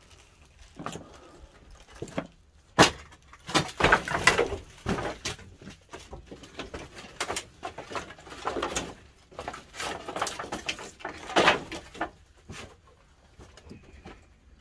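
Pine firewood burning in a traditional wood-fired kiln, the fire whooshing in irregular surges every second or two, with a sharp crack near the start.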